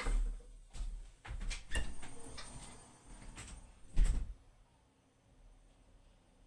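A run of irregular knocks and clunks, ending in one heavy thump about four seconds in, then quiet room noise.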